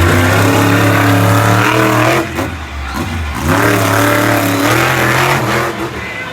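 Monster truck engine revving hard, dropping off about two seconds in and revving back up about a second later.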